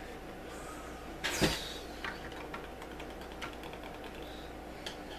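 A short scraping creak about one and a half seconds in, then scattered light clicks of LEGO bricks being handled, over a steady low hum.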